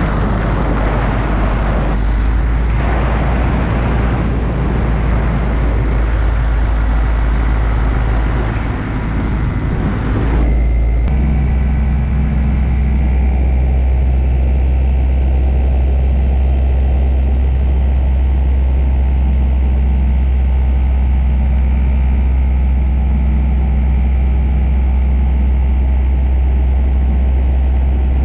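An engine running steadily under a rushing, wind-like noise; about eleven seconds in the rush drops away and a steady low engine drone takes over.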